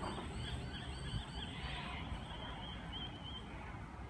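Railway platform ambience: a steady low rumble with short, repeated high bird chirps over it.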